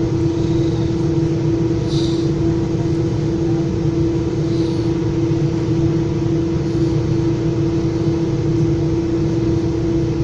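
Inside a moving Metra commuter train car: a steady low rumble with a constant hum, and a brief click about two seconds in.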